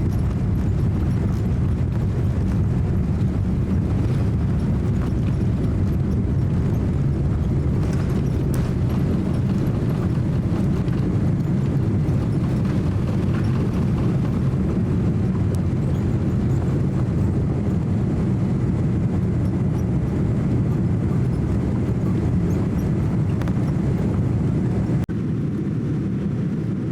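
Steady low rumble inside a Boeing 787-9 airliner's cabin, from the engines and the airframe. The noise lessens slightly near the end.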